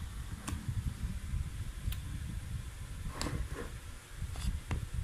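Spoons tapping and scraping against an ice cream tub: a handful of scattered sharp clicks, a few close together about three seconds in, over a low rumble of the phone being handled.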